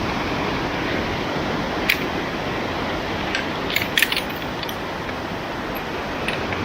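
Steady rush of a swollen mountain stream after the monsoon rains. Several sharp clicks over it: one about two seconds in, a quick cluster around the middle, and one near the end.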